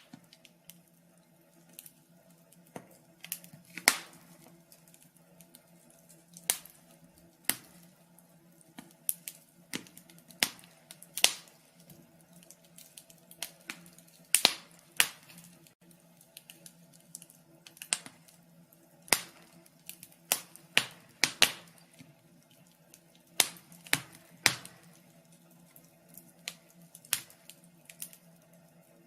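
Wood fire crackling, with irregular sharp pops and snaps over a faint steady background.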